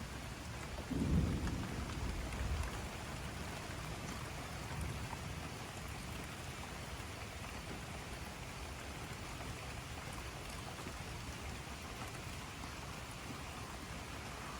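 Steady rain falling, with a low roll of thunder that swells about a second in and dies away over the next couple of seconds; a fainter rumble follows a few seconds later.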